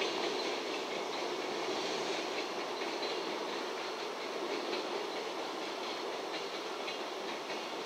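Container freight train's wagons rolling away along the track, a steady rumble with faint clicks of the wheels over the rail joints, slowly fading.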